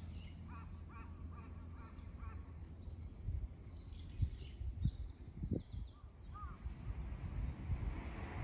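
Birds calling: a quick run of four short calls in the first couple of seconds, then scattered higher chirps, over a steady low rumble.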